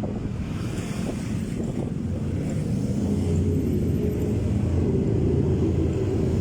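Motorcycle engine running, a steady low drone that grows slightly louder, with wind buffeting the microphone.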